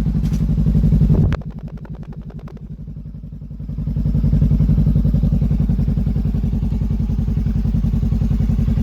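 Honda Rebel 500 (CMX500) parallel-twin engine running through an aftermarket generic slip-on muffler, with a steady pulsing exhaust note. A little over a second in the sound drops sharply, as when the throttle closes to idle. About four seconds in it rises again and then holds steady.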